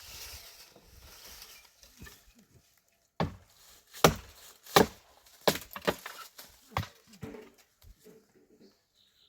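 A series of about six sharp, loud knocks, half a second to a second apart, after a few seconds of faint rustling.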